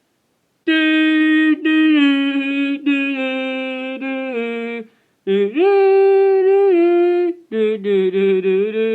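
A voice humming or singing a wordless tune in three phrases of held notes, stepping down in pitch in the first and sliding up at the start of the second.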